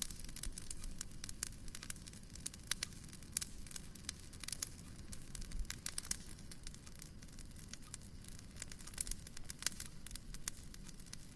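Wood fire crackling and popping in a fireplace, with irregular sharp snaps over a steady low rumble.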